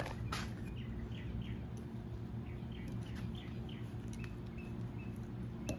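A small bird chirping over and over in short high notes, about three a second in the second half, above a steady low electrical hum, with a couple of faint metallic clicks.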